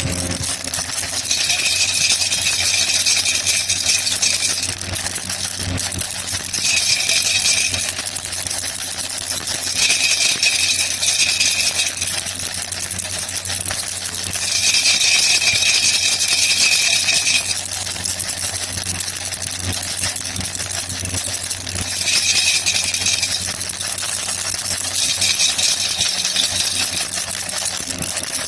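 Baby rattle shaken in six bursts of one to three seconds each, with short pauses between, over a steady hiss.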